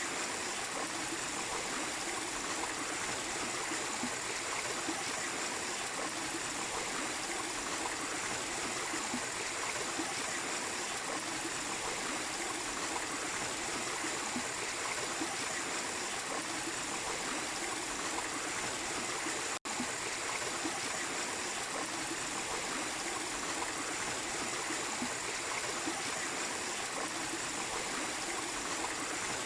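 Water of a small waterfall and stream flowing steadily over rocks, an even rushing splash, with a split-second gap in the sound about twenty seconds in.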